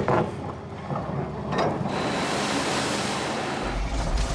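Heavy rock truck hauling over a rough road: a rushing, wind-like noise, then a deep engine and body rumble that comes in strongly about three and a half seconds in.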